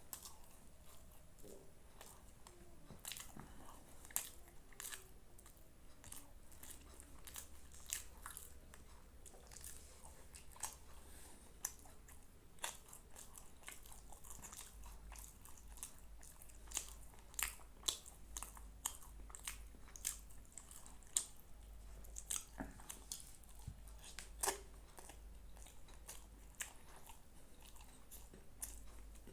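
A person chewing and biting food close to the microphone, with many sharp, irregular mouth clicks and crunches, thickest and loudest through the middle and later part.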